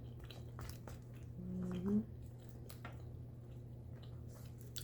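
Close-up mouth sounds of someone eating pot pie: soft wet chewing with scattered little clicks, and a short rising hummed sound about two seconds in.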